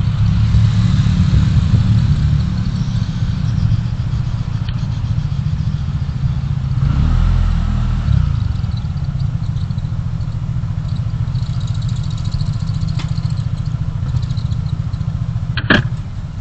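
Car driving: a steady low rumble of engine and road noise, with one sharp click near the end.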